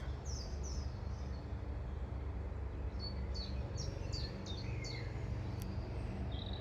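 Garden songbirds calling and singing in short, high, downward-slurred notes: a couple early on, then a quicker run of repeated notes about halfway through, over a low steady background rumble.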